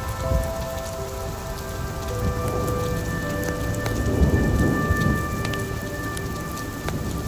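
Steady rain with a roll of thunder that swells about two and a half seconds in, peaks around four seconds and fades out a second or so later.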